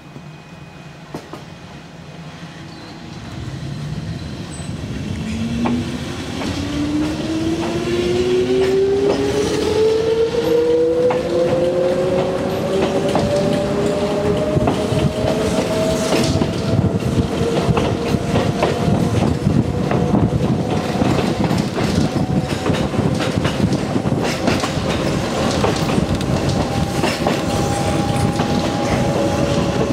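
Kōnan Railway Ōwani Line electric train pulling away from a standstill, heard from inside the car: a motor whine starts about three seconds in, rises in pitch as the train accelerates and levels off at cruising speed. The running noise and wheels clattering over the rail joints grow louder as it speeds up.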